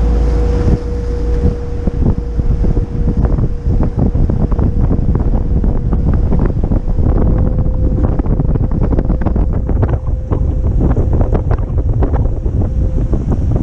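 Wind buffeting the microphone on a McKinna 65 motor yacht underway, with water rushing and splashing along the hull, a heavy low rumble, and a steady hum underneath.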